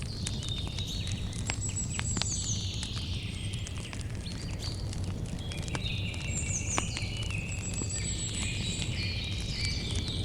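Campfire crackling, with frequent sharp pops over a low steady rumble, while birds call in short high phrases, some sliding downward, again and again.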